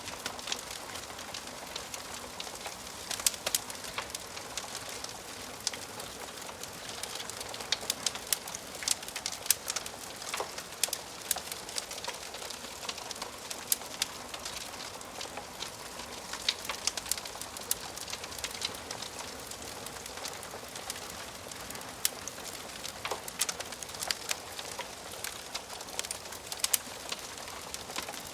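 Wood fire crackling in a fireplace: a steady hiss broken by many sharp, irregular pops and snaps of burning logs.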